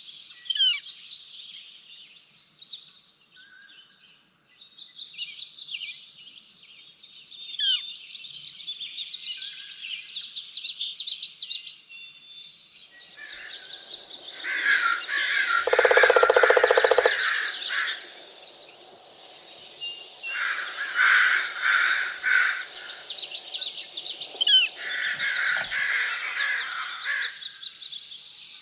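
Several songbirds chirping and singing at once, with rapid overlapping trills and tweets. A louder, lower-pitched harsh call joins in about halfway through and comes back twice more in shorter bursts.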